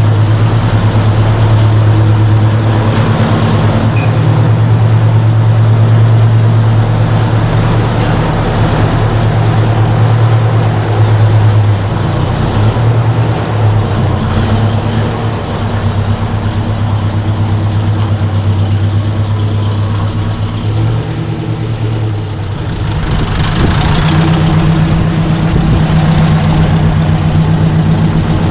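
1953 Ford Jubilee tractor's four-cylinder gasoline engine running steadily just after a cold start on choke. Its note shifts about twelve seconds in, and again about two-thirds of the way through, where a brief surge of noise comes before the engine settles at a changed speed.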